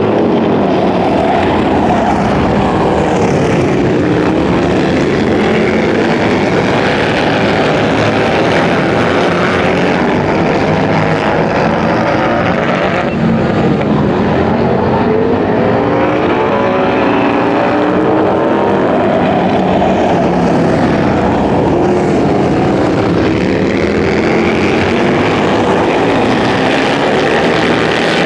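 Several racing motorcycle engines running hard on a track, their pitch repeatedly rising and falling as the bikes accelerate, shift and pass.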